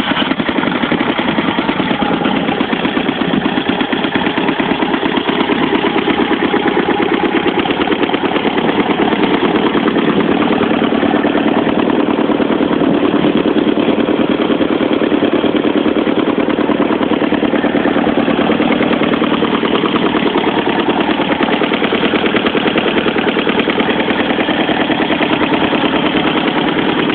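Dnepr motorcycle's flat-twin engine, just started, idling steadily with an even, rapid firing pulse.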